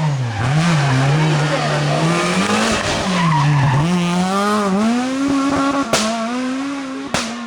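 Rally car engine revving hard, its pitch rising and falling repeatedly as the driver works the throttle, with the tyres skidding as the car is slid around a hairpin. There are a couple of abrupt cuts near the end.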